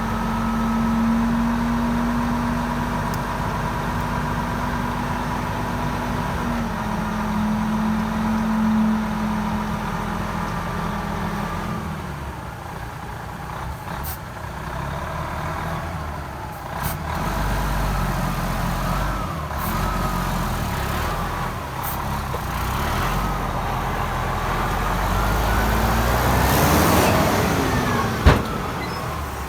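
Diesel engine of heavy earthmoving machinery running, steady for about the first twelve seconds, then rising and falling in pitch as it works. A single sharp clank comes near the end.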